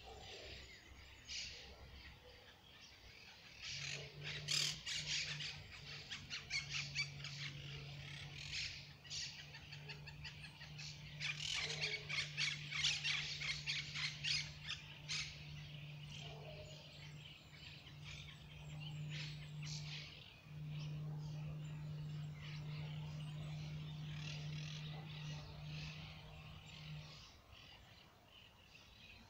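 Birds chirping in trees: many short, high calls in quick runs, busiest between about four and sixteen seconds in, then sparser. A steady low hum sits underneath from about four seconds in until near the end.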